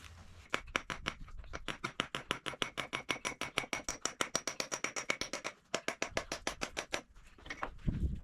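Ratchet wrench spinning, a fast run of metallic clicks at about nine a second with a light ring, pausing briefly near the end and then clicking again.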